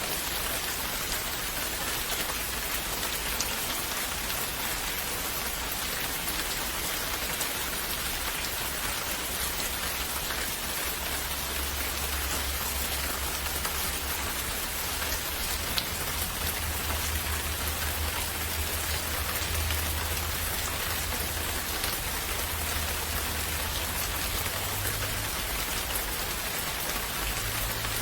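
Steady, even rain falling on surfaces, with a low rumble coming in underneath from about halfway through.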